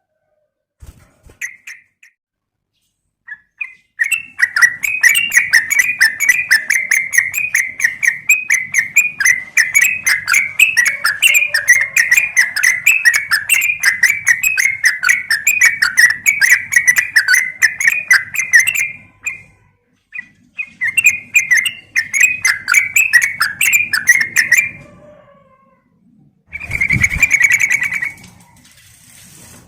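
Yellow-vented bulbul (trucukan) calling in a fast, continuous chatter of short notes, with brief pauses. The tags describe it as a female calling a male.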